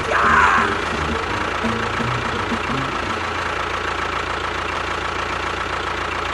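Engine running steadily at idle, with a brief rise in noise in the first half second.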